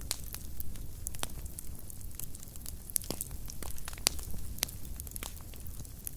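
Fireplace fire crackling: irregular sharp pops and snaps over a low steady rumble of flame, with the loudest pop about four seconds in.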